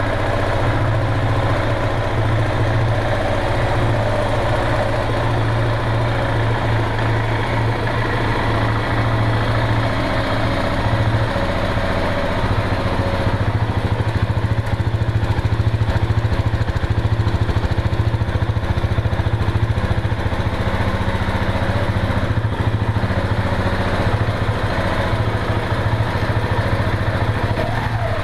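KTM 690 single-cylinder engine idling steadily through its exhaust.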